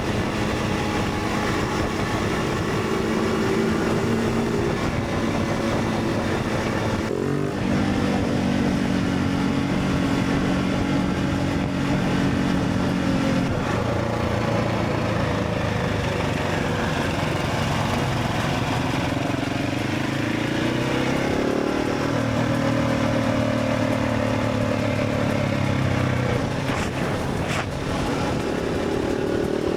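Motorcycle engine running while riding, its pitch holding steady for stretches and then shifting several times with throttle and gear changes, including one rising rev about two-thirds of the way through, over a steady rush of wind noise.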